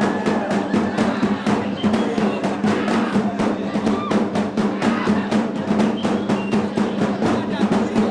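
Music driven by fast, steady drumming, about five or six drum strikes a second over a sustained low tone.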